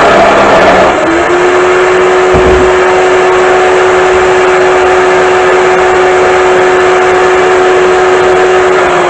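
Electric drill powering a Black & Decker D-994 lathe attachment, its motor running at speed with a steady whine that settles about a second in, over loud rough noise from the spinning work.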